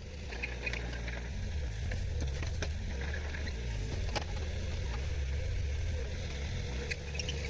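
Heavy machine engine running steadily with a low rumble, with a few sharp clicks or knocks over it.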